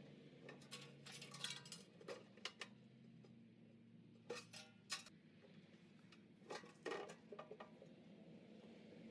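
Light metallic clinks and clatter in three short clusters, like tools or small metal parts being handled, over a faint steady low hum.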